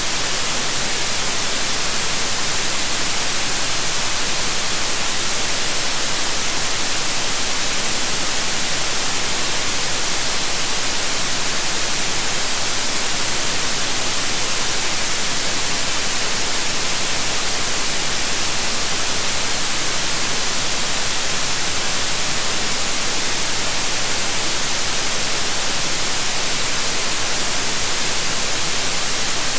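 White noise: a steady, even hiss, brightest in the high treble.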